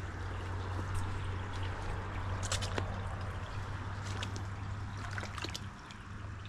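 Water trickling steadily over a constant low hum, with a few sharp clicks midway.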